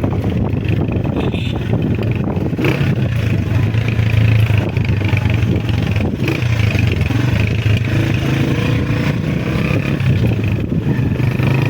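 Honda CG125 motorcycle's single-cylinder four-stroke engine running while riding, a steady low hum with road and air noise over it.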